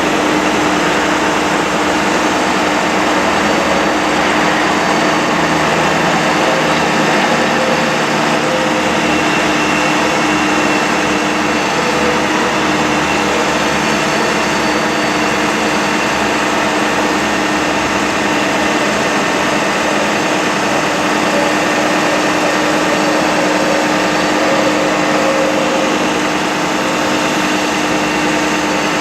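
Bucket truck's engine running steadily with its power take-off engaged, driving the boom's hydraulics, with a steady low tone over an even mechanical noise.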